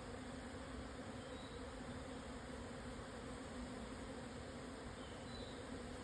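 A swarm of Japanese honeybees buzzing during swarming: a steady hum of many wingbeats.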